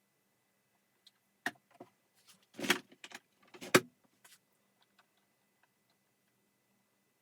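Handling noises from vacuum-cleaner parts being taken apart: a few scattered clicks, a louder scraping clatter, then a sharp knock about a second later.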